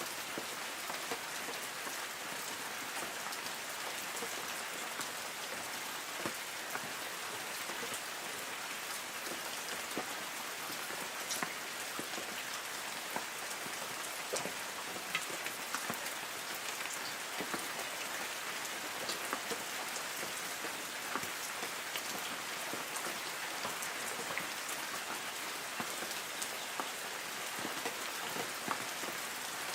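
Light rain falling on forest trees: a steady hiss with many scattered drop ticks on leaves.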